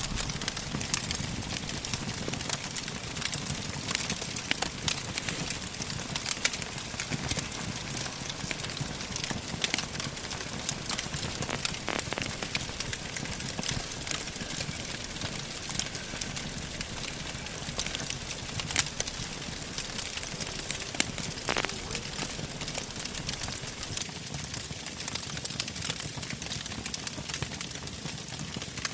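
Wood campfire crackling, with frequent small sharp pops over a steady hiss, as damp branches laid on top of the fire dry out and burn.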